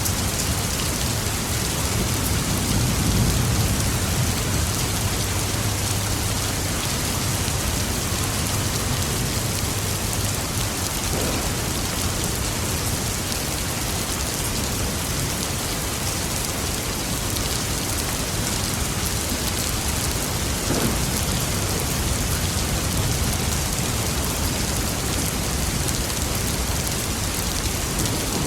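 Steady rain falling, with a low rumble of distant thunder rolling a couple of seconds in and dying away by about ten seconds.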